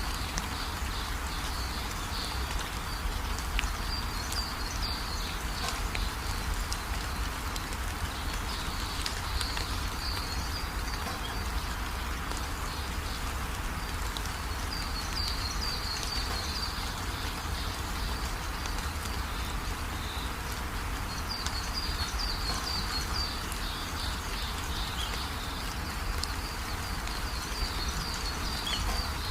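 Steady rain falling, with short runs of high chirping calls from birds or insects coming back every few seconds.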